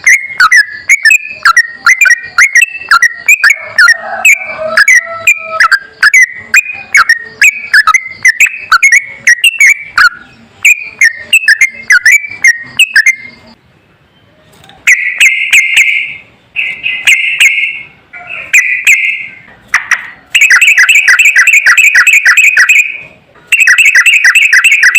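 Sooty-headed bulbul (trucukan) song from a training recording: a run of quick, varied whistled notes with sharp clicks, then, after a short pause about halfway, bursts of fast repeated notes.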